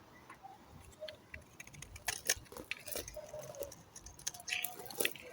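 Knife cutting into a bar of soap: irregular crisp crackling clicks, sparse at first and coming thick and fast from about two seconds in.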